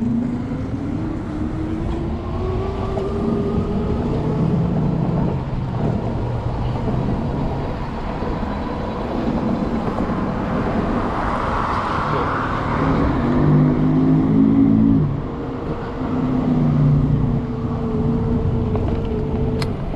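Riding an electric bike through city traffic: a steady rushing noise, with a whine that rises in pitch over the first few seconds as the bike speeds up, and other vehicle tones around it.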